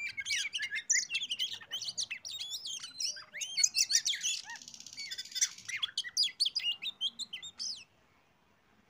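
Oriental magpie-robin (kacer) singing a fast, varied song of whistled notes and chirps, with a buzzy rattling phrase in the middle; the song stops a second before the end.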